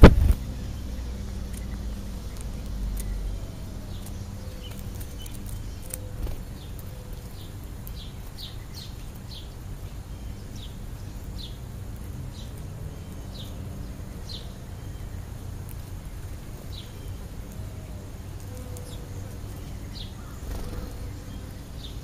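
A sharp knock at the very start, then birds chirping: short, high, falling chirps scattered irregularly through, over a low steady hum.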